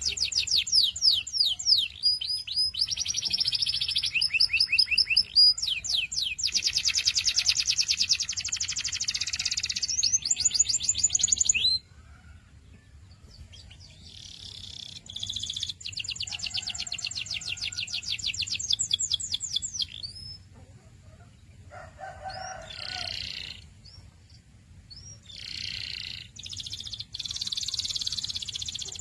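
Domestic canary singing long, fast trills of rapidly repeated high notes. The song stops abruptly about twelve seconds in, then resumes in shorter phrases with pauses between them.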